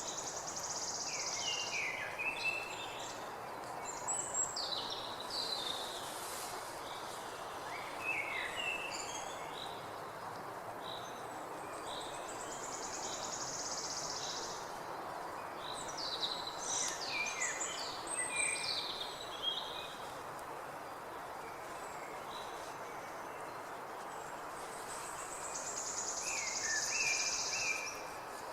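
Wild birds chirping and singing, with many short, varied calls, over a steady background hiss. A high, buzzy trill comes three times: at the start, in the middle and near the end.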